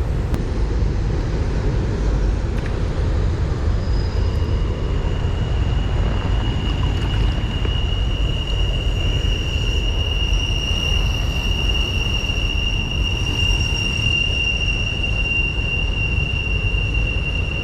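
Steady low rushing noise outdoors beside a creek. A thin, high, continuous whine comes in about four seconds in and holds steady, with a fainter higher tone above it.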